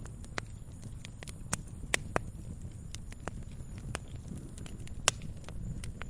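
Campfire burning: wood crackling with irregular sharp pops, the loudest about two and five seconds in, over a low steady rumble from the flames.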